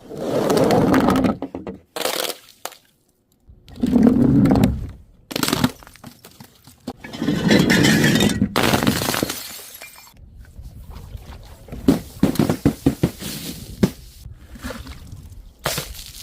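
Glass bottles breaking and shattering: several loud crashes, each lasting up to about two seconds, followed by a run of quicker, smaller sharp impacts near the end.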